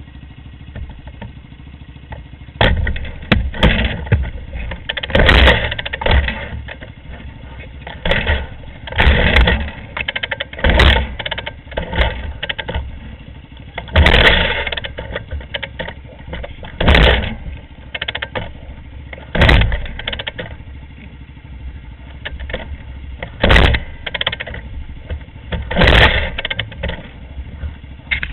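Off-road vehicle engines running, with loud surges every two to three seconds starting about two and a half seconds in.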